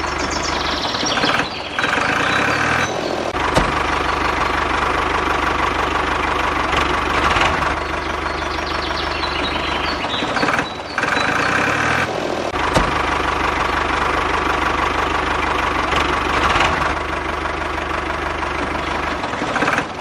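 Tractor engine running steadily with a knocking beat, broken by several abrupt short breaks where it cuts out and starts again.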